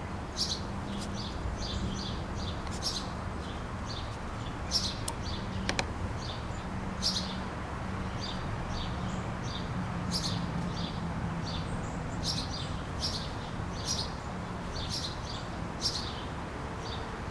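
Backyard songbirds chirping: many short, high chirps scattered throughout, over a steady low hum.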